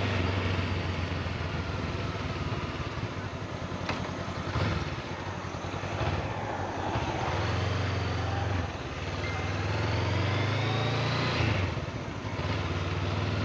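Honda CB500X parallel-twin engine running under way, its note climbing and dropping as the throttle is opened and closed, with a few short dips in between, over steady wind noise.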